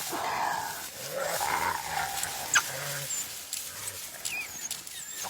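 Wild animals fighting at close range: growls and calls, loudest in the first couple of seconds, with thin high chirps later on.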